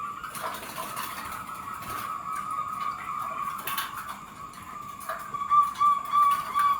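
Zebra doves (perkutut) cooing, a steady high trilling coo held on one pitch that grows louder in the last second or two.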